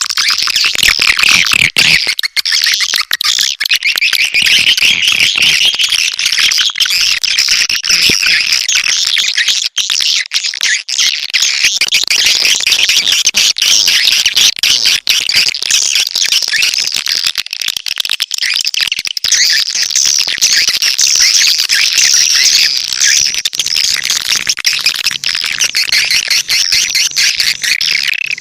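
Swiftlet lure call: a dense, continuous mass of high chirping and twittering from edible-nest swiftlets, looped without a break, as used to draw swiftlets into a nesting house.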